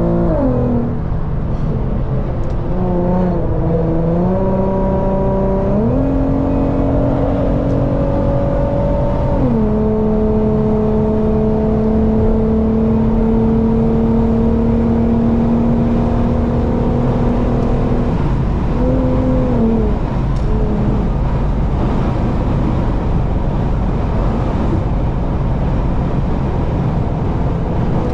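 Car engine and road noise while driving at highway speed. The engine note drops and climbs again several times, holds steady for a stretch, then sinks under a constant low road rumble in the last third.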